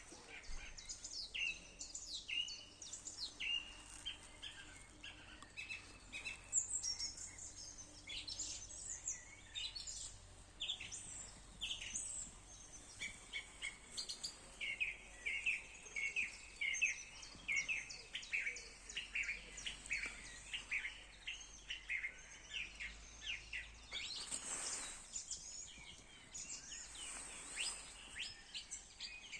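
A spring chorus of several songbirds singing at once, with many quick, overlapping chirps and trills. Two short rushes of noise come near the end.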